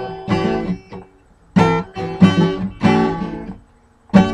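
Acoustic guitar strummed in short blues phrases of several chords each, with brief stops about a second in and near the end.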